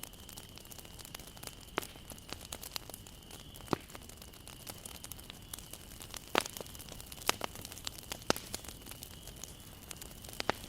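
Wood campfire burning, crackling with irregular sharp pops over a steady low hiss, the loudest pops a little past the middle. A faint steady high tone runs underneath.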